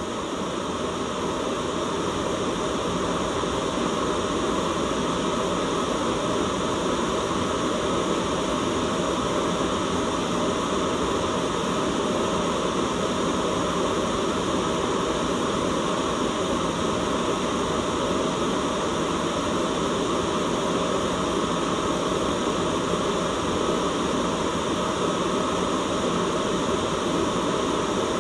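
Steady white noise: an even, unbroken hiss that swells slightly in level over the first couple of seconds and then holds.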